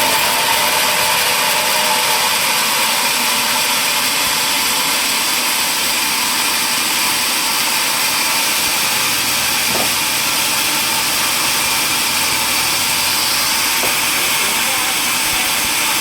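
Power saw running and cutting wood: a steady, even high hiss.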